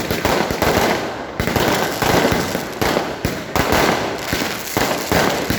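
Fireworks and firecrackers going off in rapid, continuous succession: a dense barrage of overlapping bangs and crackles with no break.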